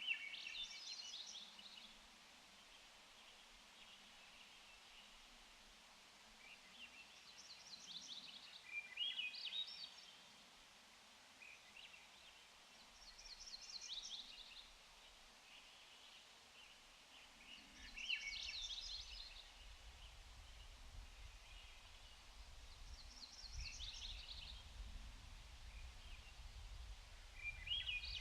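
A songbird singing the same short, trilling song over and over, about every five seconds, six times in all, against a faint steady background hiss. A low rumble comes in about two-thirds of the way through.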